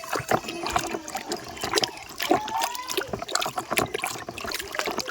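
Water splashing and trickling as a muddy toy auto-rickshaw is washed in water, with irregular small splashes and knocks throughout.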